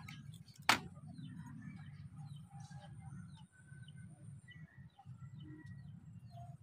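Faint small-bird chirping: a run of short, quick, falling chirps, with one sharp click about a second in.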